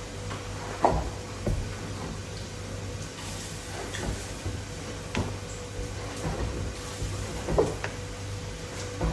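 Scattered knocks and clunks, as of things being handled and set down, over a steady low hum. The two loudest knocks come about a second in and near the end.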